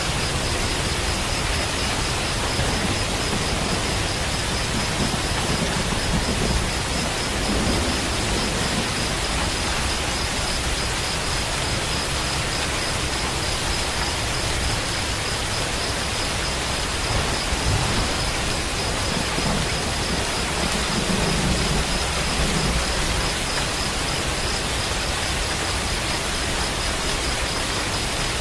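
Steady heavy rain, with low rumbles of distant thunder swelling twice.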